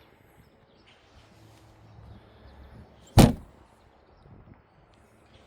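A storage hatch lid on a bass boat's deck shutting with one loud bang about three seconds in.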